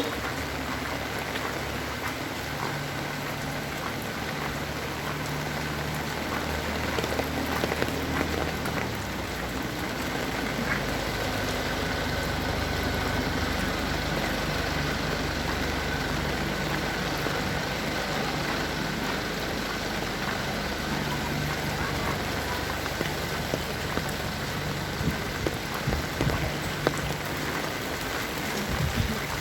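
Heavy rain falling, a steady dense hiss of rain on surfaces, with a low engine hum underneath at times.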